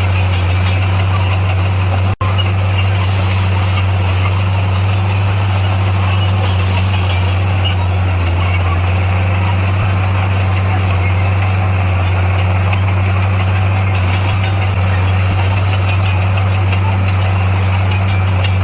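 Heavy diesel engine of earthmoving machinery running steadily at a constant speed, with a deep, even hum. The sound cuts out for a split second about two seconds in.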